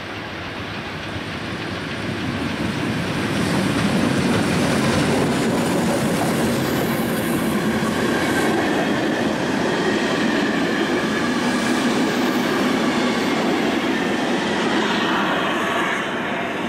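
Steam-hauled passenger train, class 52 locomotive 52 8154-8 with its coaches, passing close by: a steady rumble of wheels rolling on the rails. It builds over the first few seconds and eases near the end.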